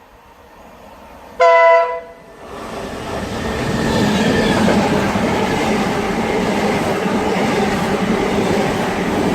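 A single short, loud horn blast from a Mark 3 driving van trailer about a second and a half in. Then a Class 90 electric locomotive and its Mark 3 coaches pass through at speed, a steady loud rush of wheels on rail.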